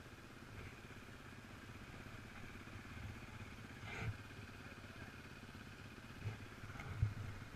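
Off-road motorcycle engine running steadily at low revs, with a few short knocks, the loudest about seven seconds in.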